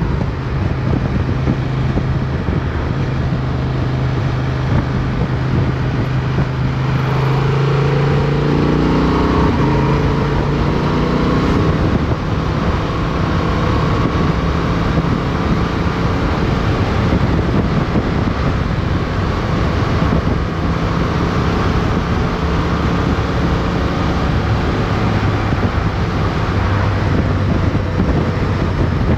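Motorcycle engine and wind noise from an onboard camera. The engine holds a steady note at first, then accelerates about seven seconds in with its pitch rising, and settles into cruising with strong wind rush.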